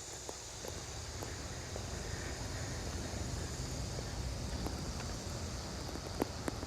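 Footsteps walking along a trail, with scattered light crunches and knocks over a steady high buzz and a low rumble that picks up about a second in.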